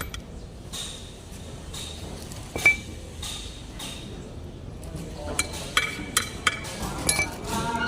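Sharp metallic clinks and taps of metal on metal, scattered, with one clear strike near three seconds in and a quick run of them about five to seven seconds in, over a faint low steady hum.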